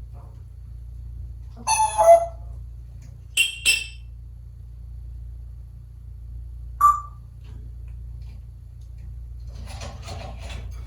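African grey parrot giving a few short, separate calls: a voice-like call about two seconds in, two sharp high squawks a moment later, and a single short whistle near the middle.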